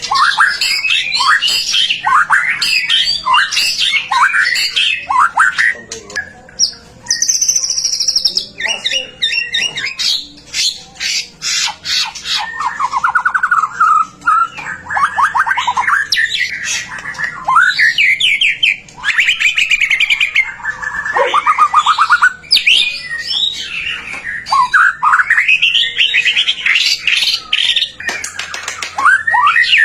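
White-rumped shama (murai batu) in full song: a continuous stream of loud, fast, varied phrases of rapid rising and falling whistles, trills and sharp ticking notes.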